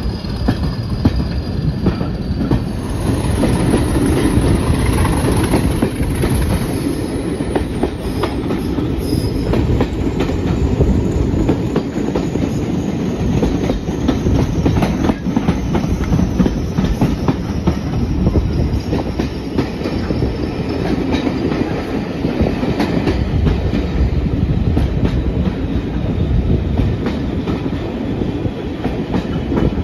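Heritage passenger train hauled by Class 40 diesel locomotive D345, heard from an open coach window: steady running noise with wheels clicking over the rail joints throughout.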